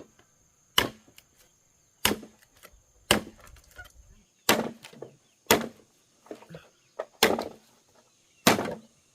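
Bamboo being chopped with a blade: about seven sharp chops, roughly one a second, each with a brief woody ring.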